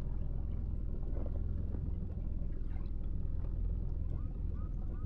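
Boat motor running steadily, a continuous low rumble.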